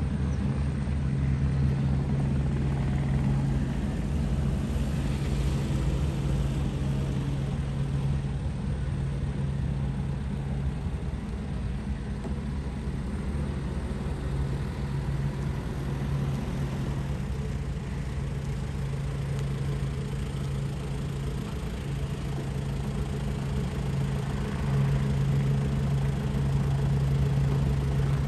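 Steady drone of an Airbus AS350 B2 helicopter's turbine and rotors heard from on board: a constant low hum with a fast low flutter beneath it.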